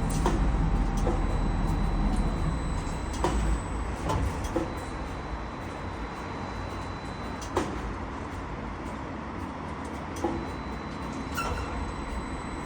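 A heavy vehicle's engine running steadily, louder for the first three seconds or so and then settling lower, with a handful of sharp clicks and knocks scattered through it.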